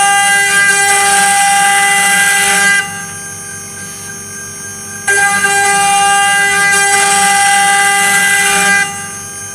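CNC 3040 router spindle cutting 6082 aluminium: a loud high-pitched cutting whine that drops back to the quieter steady whine of the spinning spindle about three seconds in, then a second cutting pass starts about five seconds in and stops again near the end.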